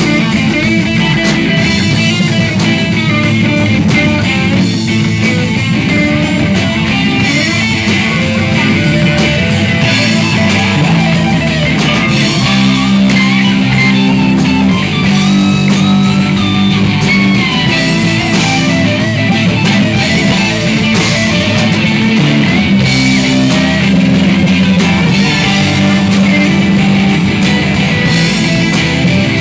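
Live rock band playing, electric guitar to the fore over a steady beat.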